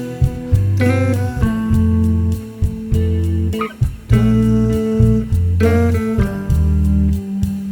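Guitar music over a deep bass line, the chords changing about once a second.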